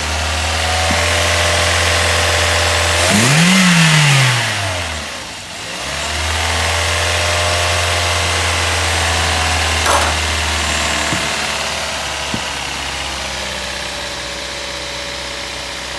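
Toyota Corolla GLi engine idling steadily, revved up once a few seconds in and falling back to idle.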